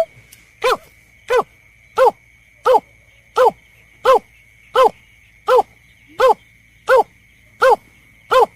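A bird-lure recording of the berkik/belkek bird: a short, pitched call note repeated steadily about every 0.7 seconds, each note falling in pitch. A faint steady high whine runs underneath.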